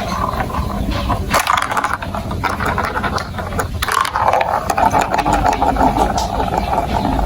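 Marbles rolling and clattering along a plastic building-block marble run: a continuous rattle of many small clicks, with a steady rolling hum joining about four seconds in.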